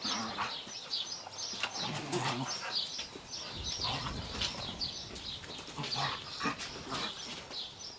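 Birds chirping in many short, repeated calls.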